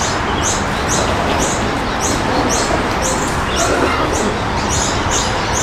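A bird chirping over and over, short high chirps about twice a second, over a steady rushing noise.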